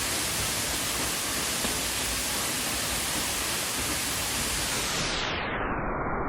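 Steady rushing roar of the Minoh Great Waterfall. About five seconds in, the hiss fades away and the roar turns muffled, as if passed through a filter.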